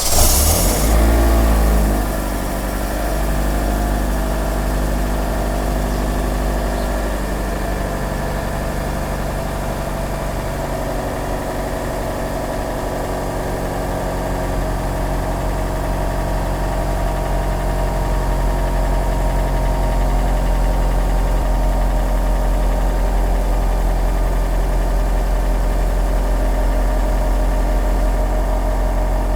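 2009 Honda Civic's 1.8-litre four-cylinder engine cold-starting in −15 °F cold. It catches right at the start, runs louder for about two seconds, then settles into a steady idle.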